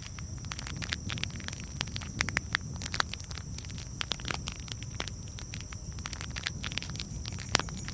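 Campfire wood crackling, with many irregular sharp pops and snaps over a steady low rumble of the flames. One louder pop comes near the end.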